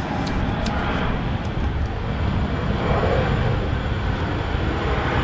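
A small propeller airplane flying over, a steady engine drone that grows gradually louder.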